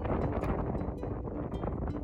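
Strong wind buffeting the microphone: a continuous low rumble broken by rapid gusty thumps.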